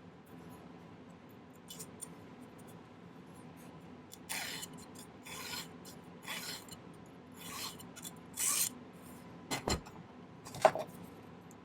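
A hand file rasping on sterling silver wire in five separate strokes, filing the link's angle inwards. Two sharp clicks follow near the end, the second the loudest sound.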